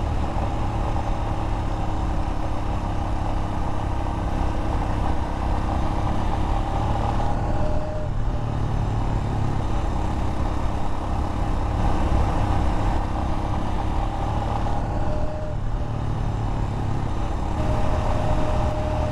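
Royal Enfield Himalayan's single-cylinder engine running steadily while the motorcycle rides along a mountain road, with a steady low rumble underneath. The engine note shifts slightly in pitch a few times.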